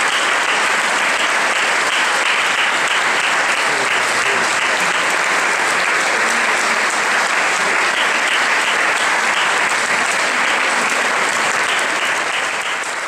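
Audience applauding steadily, a dense even clapping that fades out near the end.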